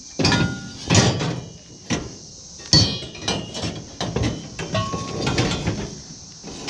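Scrap metal pieces clanking and knocking as they are handled and loaded, about eight irregular hits, a few of them ringing briefly.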